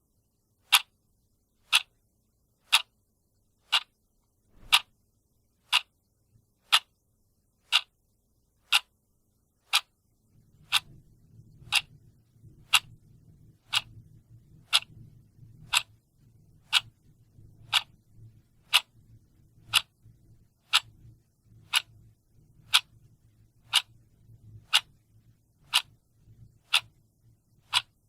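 Clock ticking steadily, one sharp tick per second. A faint low rumble sits under the ticks from about ten seconds in.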